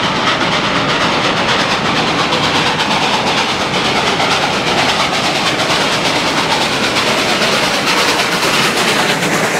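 Freight train behind a steam locomotive rolling through a tunnel, heard from aboard: a loud, steady running noise of wheels on rail.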